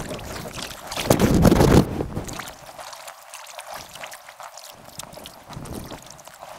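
Kayak paddling on a river, sped up: water splashing and dripping from the paddle strokes, with a louder rush of wind on the microphone about a second in.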